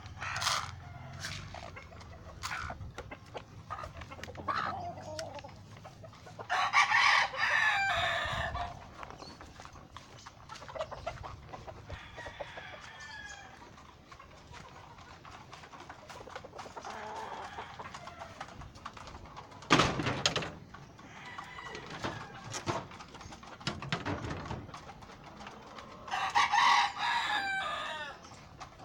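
Game fowl roosters crowing: two long crows, one about a quarter of the way in and another near the end, with clucking and short calls in between. A single sharp knock about two-thirds of the way through.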